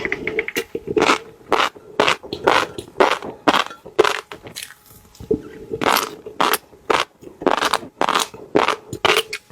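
Close-miked crunching and biting while eating fish roe: sharp crunches about two a second, with a short pause about halfway through.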